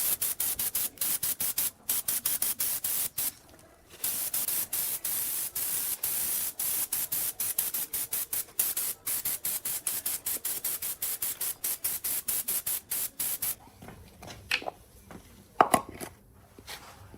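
A high spraying hiss, broken up by many short gaps and one brief pause, that stops about thirteen and a half seconds in. A few light knocks and clicks follow.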